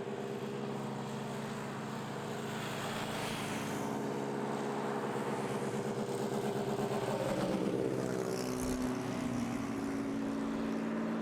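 Wankel rotary engine of a Mercedes-Benz C111 concept car running at a steady idle shortly after a cold start, its pitch shifting briefly about seven to nine seconds in.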